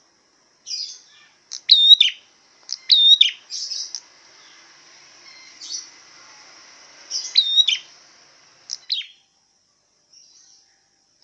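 A songbird singing repeated short phrases of sharp chirps, each with a steeply sweeping note, about one phrase a second, with buzzier, higher notes in between. The song breaks off for about two seconds near the end.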